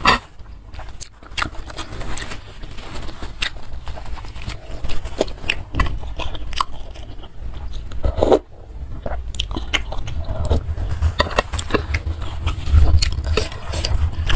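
Close-miked chewing of a mouthful of spicy noodle soup, with many short wet smacks and clicks of the mouth.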